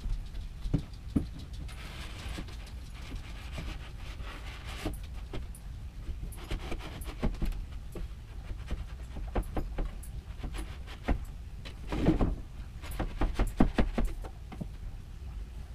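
Irregular light knocks and clicks of bookcase parts being handled and fitted, with a stretch of breathy hiss a couple of seconds in and a quick run of knocks near the end.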